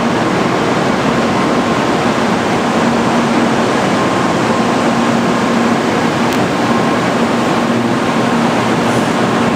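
Steady whirring hum of a parked 800 Series Shinkansen train's on-board equipment, such as its cooling fans and air conditioning, running at a constant level with a faint low drone.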